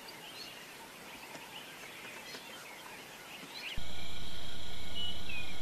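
Outdoor ambience with faint, scattered bird chirps. About two-thirds of the way through it cuts abruptly to a much louder ambience: a steady low rumble and a steady high drone, with bird calls stepping up and down in pitch over them.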